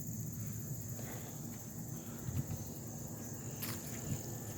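Steady high-pitched insect chirring in the background over a low outdoor rumble, with a faint click about three and a half seconds in.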